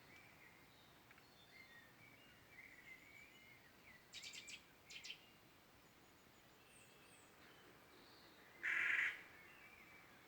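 Birds chirping faintly, with two short bursts of sharp chattering about four to five seconds in and a single loud, harsh call of about half a second near the end.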